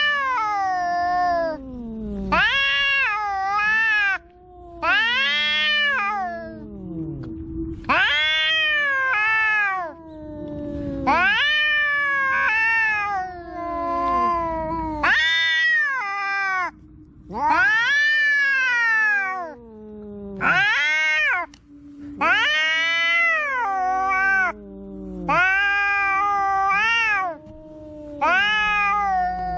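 Two tomcats caterwauling in a fight standoff: long yowls that rise and fall in pitch, repeated every couple of seconds, over a lower, drawn-out moan.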